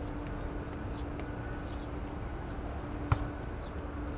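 Steady low outdoor rumble with small birds chirping briefly now and then, and a single sharp click about three seconds in.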